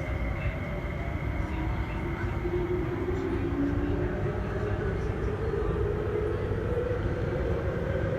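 MTR SP1900 electric multiple unit running, with a steady rumble of wheels on rail. The traction motors' whine falls in pitch briefly near the start, then rises steadily through the rest as the train picks up speed.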